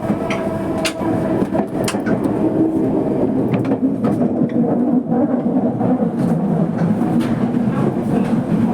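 Toei Mita Line subway train running between stations, heard from inside the car: continuous wheel and rail noise with a few sharp clicks, and a steady motor tone through the first few seconds.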